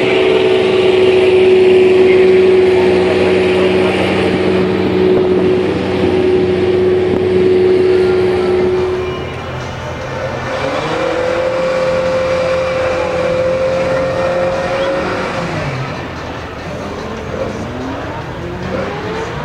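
High-revving sports car engines at speed on a race track. One engine holds a steady high pitch for about nine seconds, then another rises and holds until about fifteen seconds in, and more engines rise in pitch near the end as they accelerate.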